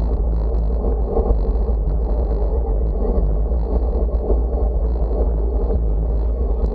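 Wind buffeting the microphone: a steady, loud low rumble with no breaks.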